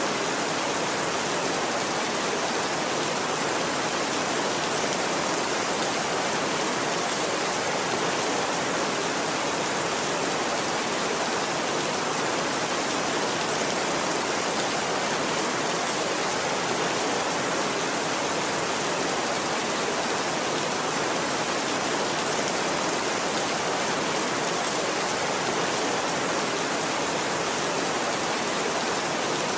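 Steady rainfall, an even hiss that holds at one level without breaks or thunderclaps.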